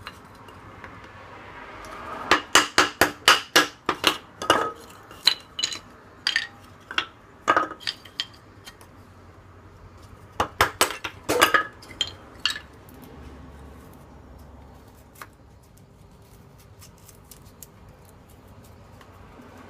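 Small metal camp-stove and cookware parts clinking and clattering as they are handled, in three bursts of rapid light strikes with short ringing; quieter for the last several seconds.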